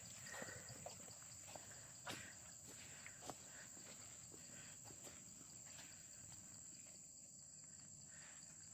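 Faint steady high-pitched drone of forest insects, with a few soft clicks in the first few seconds.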